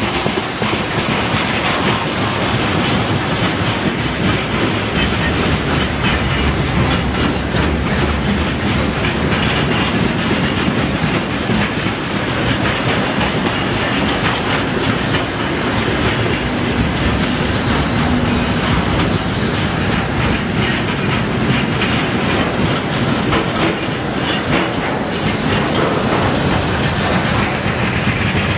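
Freight train of open wagons and tank cars rolling past close by: a steady, loud rumble of steel wheels on rails with continuous clickety-clack over the rail joints.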